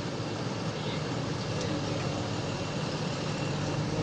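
Heavy diesel engines of a JCB backhoe loader and a stuck truck running steadily under load, as the loader pulls the truck out.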